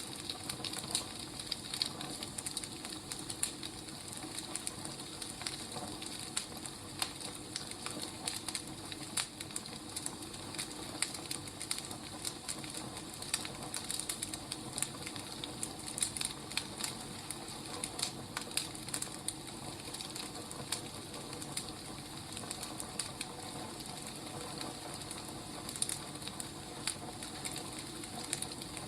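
Burning firewood crackling: irregular sharp snaps and pops over a steady hiss.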